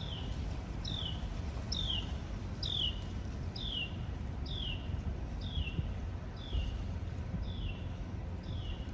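Eastern chipmunk giving its repeated alarm chip: a short, high chirp that slides downward, about once a second, evenly and without a break, the call of a chipmunk that feels threatened by someone coming close.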